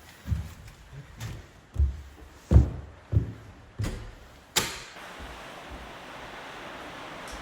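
A run of about seven dull thuds and knocks, loudest about two and a half seconds in, as gale-force gusts buffet the mountain hut. From about halfway a steady rushing noise of the storm takes over and slowly grows.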